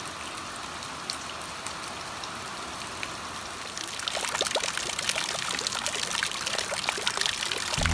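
Rain falling with a steady trickle of running water. About four seconds in it turns louder and denser: heavy rain splashing into a plastic barrel brimming with water.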